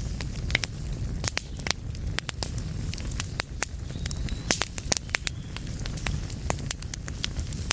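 Wood fire burning in a fireplace: sharp, irregular crackles and pops, several a second, over a steady low rumble of the flames.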